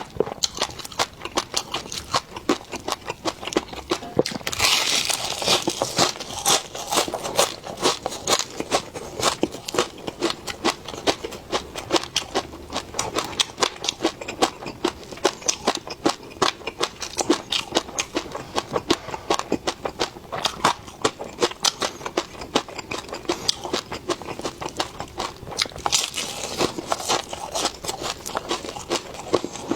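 Close-miked eating sounds: food being chewed and crunched, a dense, irregular run of sharp crackling clicks. There are two louder noisy bursts, one about four seconds in and one near the end.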